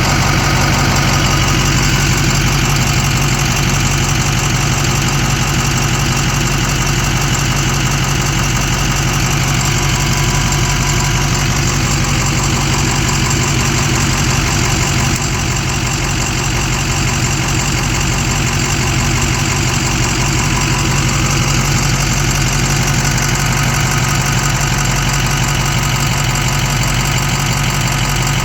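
Engine idling steadily with a fast, even ticking running through it, the ticking noise the owner is asking about.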